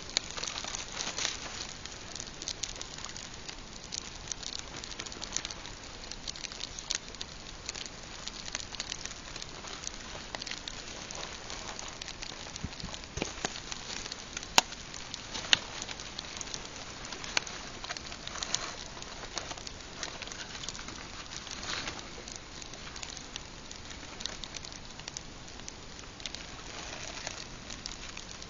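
Pine campfire crackling steadily with many small irregular pops. Two sharp, louder snaps come about halfway through.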